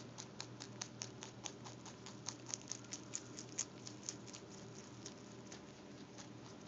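Rabbit chewing cilantro: rapid, crisp crunching clicks, several a second, thinning out after about four seconds.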